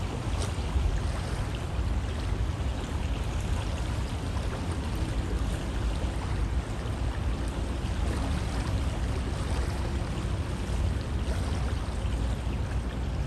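River water flowing steadily, a continuous rushing with a deep rumble underneath and faint splashes and trickles over it.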